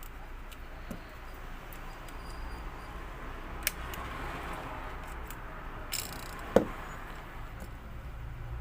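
Small handling noises from the parts of a vacuum cleaner's cable reel and its wire: a sharp click, a brief scrape, and then a single knock near the end, over a low steady hum.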